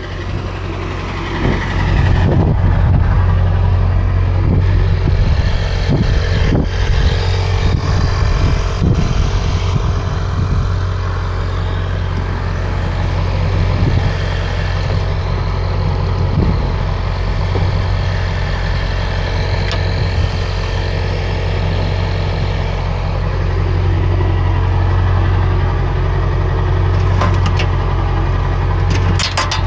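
Truck driving: a steady low engine and road drone that grows louder about two seconds in, with scattered knocks and rattles over the first ten seconds.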